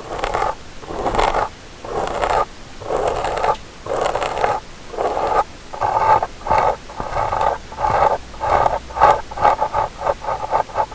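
An ear-cleaning tool rubbing and scraping against a binaural microphone's ear in repeated strokes, each about half a second long. About six seconds in, the strokes turn shorter and quicker, several a second.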